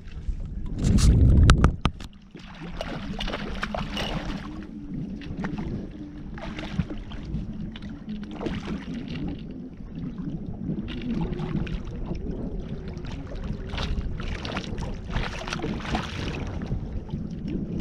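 Noise in a small fishing boat on the water: a steady low hum runs under irregular rustles and knocks, with one loud low rumble about a second in.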